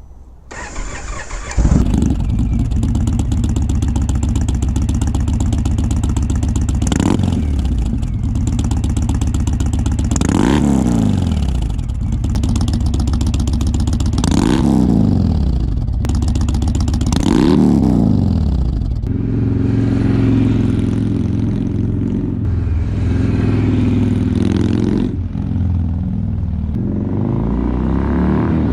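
Indian Chieftain V-twin motorcycle with a Bassani True Dual exhaust, cranked on the starter and catching about a second and a half in. It idles and is revved and let fall back four times, then runs more steadily near the end.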